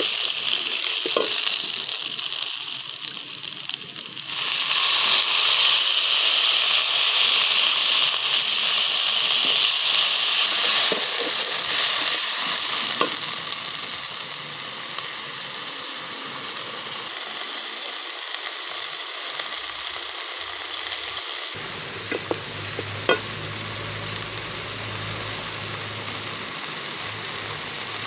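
Sliced onions and spices sizzling as they fry in oil in an aluminium pot, stirred and scraped with a wooden spoon, with a few light knocks of the spoon against the pot. The sizzle is loudest from about four seconds in and dies down to a softer fry after about twelve seconds.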